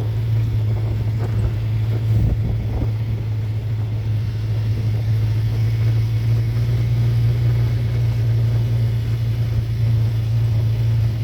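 Motor vehicle engine running with a steady low drone, unchanging in pitch and level.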